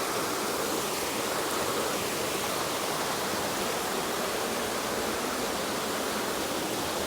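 Small cascading waterfall rushing, a steady, even noise of falling water.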